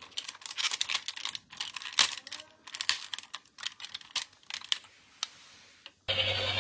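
Close-up clicks and light taps of hands handling small plastic toys and their packaging, thinning out after about five seconds. A loud steady sound with a low hum cuts in suddenly near the end.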